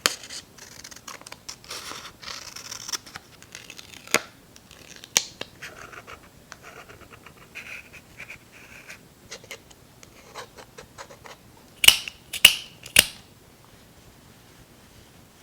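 Paper crafting sounds: paper and stickers rustling and scraping, with scattered small taps, then three sharp, crisp strokes close together about twelve seconds in.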